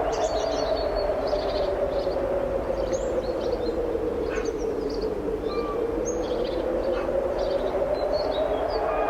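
Strong wind blowing steadily, with many small birds chirping high above it throughout.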